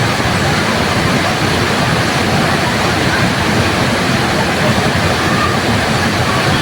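Waterfall, water pouring and splashing steadily as an even, dense rush.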